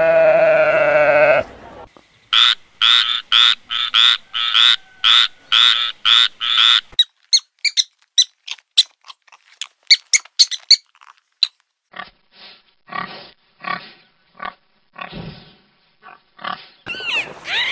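Animal calls from several different animals in turn. One call is held briefly at the start. Then come quick runs of short repeated calls about two a second, sparser sharp calls, and another run of shorter, lower calls.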